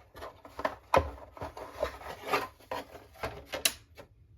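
Handling noise from model boat parts being moved and set on a workbench: an irregular run of taps, clicks and light rubbing, with the firmest knock about a second in and a sharp click near the end.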